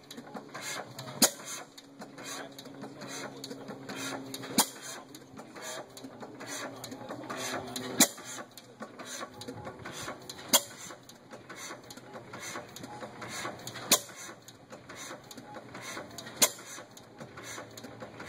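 5 hp Miami side-shaft hit-and-miss engine running on its governor: a sharp bang of a firing stroke every two and a half to three and a half seconds, six in all, with quieter regular clicking from the engine coasting between fires.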